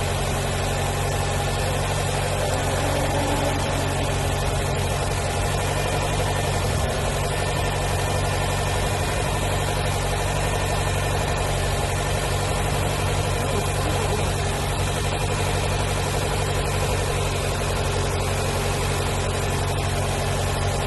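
Nissan car engine idling steadily while it warms up, after a throttle-body replacement; the owner reports that it still idles high, around 2000 rpm.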